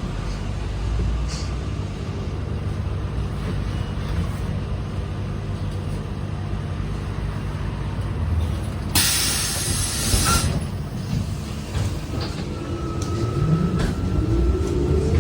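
ZiU-682 trolleybus running with a steady low hum. Just past the middle comes a loud hiss of compressed air from its pneumatic system lasting about a second and a half. Near the end the traction motor's whine rises in pitch as the trolleybus speeds up.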